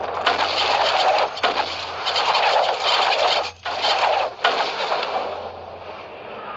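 Loud, dense film battle-scene sound effects: a rushing roar of noise broken off suddenly a few times and easing off near the end.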